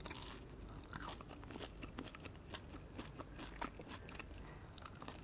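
Close-miked chewing of food, with many small crunches and mouth clicks.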